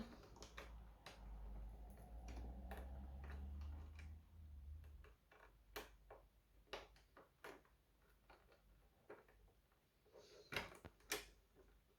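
Faint, scattered small clicks of a small screwdriver and screws working into the plastic casing of a robot vacuum during reassembly. A faint low hum sits under the first few seconds.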